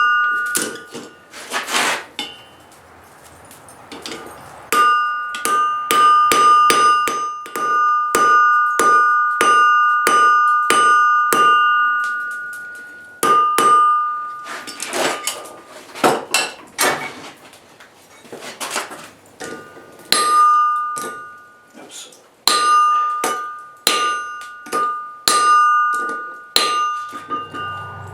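Forging hammer striking steel on an anvil in runs of quick blows, each blow leaving a bright metallic ring from the anvil, with short pauses between runs, the longest about two seconds in.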